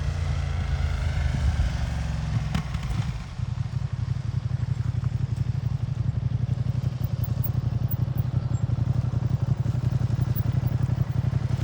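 Ducati motorcycle engine running at low revs, with a low, lumpy beat. The note drops about three seconds in and then settles into a steady idle.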